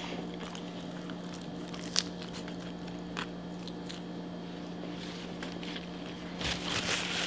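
Close-up mouth sounds of someone eating cheesy fries: chewing with scattered soft wet clicks, one sharper click about two seconds in and a busier stretch of chewing noise near the end, over a steady low hum.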